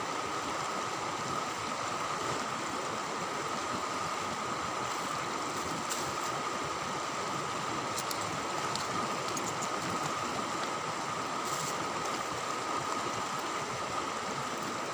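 Steady rush of flowing river water, with a steady high-pitched tone running alongside it.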